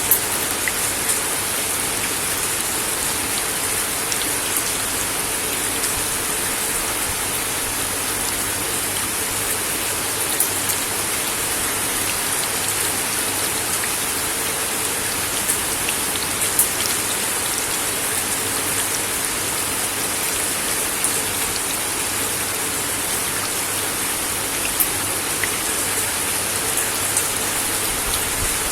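Steady rain falling on a wooden deck: an even, continuous hiss with scattered louder drops ticking sharply now and then.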